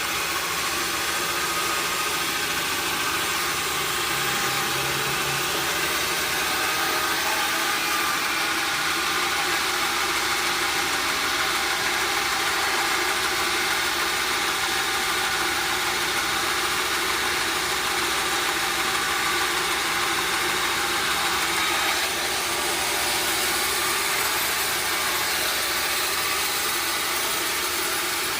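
Sawmill machinery running steadily, an even mechanical hum with a hiss over it.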